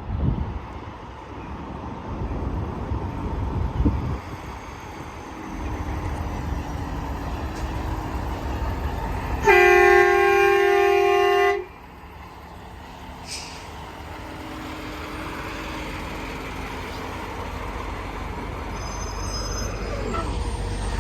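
Interstate traffic passing, with a semi truck's air horn blowing once, loud and steady, for about two seconds about halfway through before cutting off.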